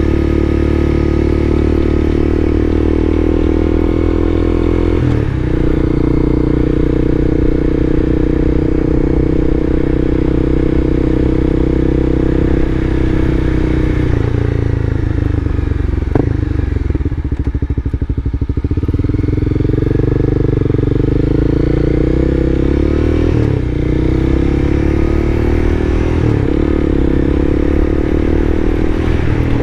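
Motorcycle engine running under way. Its pitch shifts with gear changes, eases down in the middle as the bike slows, then climbs again as it pulls away.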